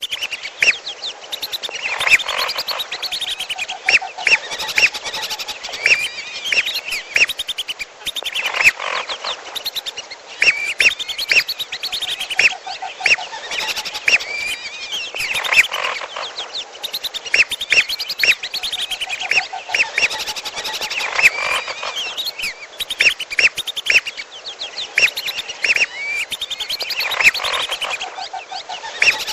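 Bird-lure recording of red whistling duck (belibis merah) calls mixed with piolo calls. Dense high whistles and chirps run with a lower trilling call, and the sequence loops about every six and a half seconds.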